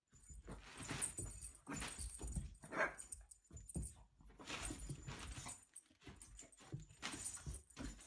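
A dog's sounds among irregular noises, with a short pitched call about three seconds in.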